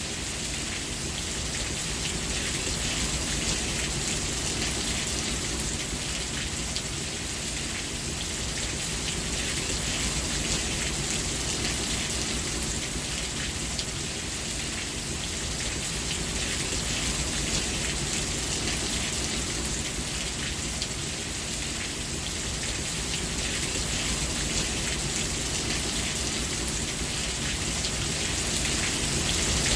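Steady rainfall, drops pattering on a surface in an even hiss.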